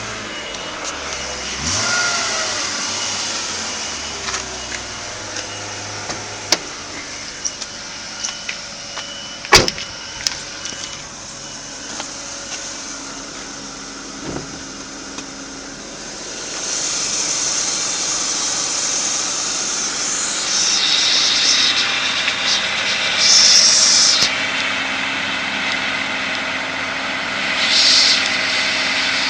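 BMW 323i Coupe's straight-six engine running, with a sharp click about ten seconds in. It grows louder and rougher for the last third, with surges in the hiss.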